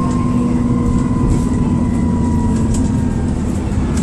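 Dennis Trident II / Alexander Dennis Enviro400 double-decker bus heard from inside while under way: steady engine and road rumble with a thin turbocharger whistle, like a kettle about to boil, that slowly falls in pitch and fades about three seconds in. Light rattles tick over the top.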